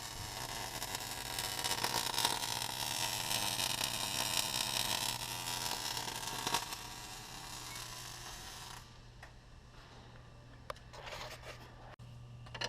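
Welding arc crackling and hissing steadily on the Jeep frame's steel for about nine seconds, then stopping, with a steady low electrical hum and a few faint knocks after it.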